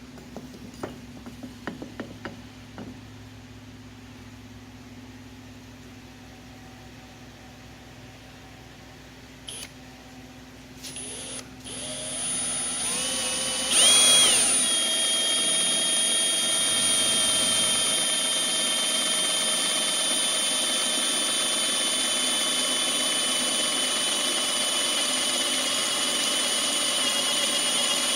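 A few sharp knocks, then an electric drill motor spins up about halfway through with a rising whine and runs steadily at full speed to the end.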